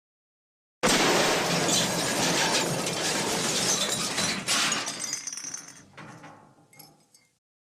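Cartoon crash sound effect of glass shattering. It starts suddenly about a second in as a long burst of breaking glass, then dies away over several seconds into scattered tinkling pieces.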